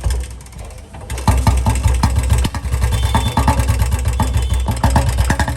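2015 Royal Enfield Bullet UCE single-cylinder engine catching about a second in and then idling in steady beats, with a 'tik tin' ticking knock. The mechanic puts the noise down to a worn crankshaft that needs crank work.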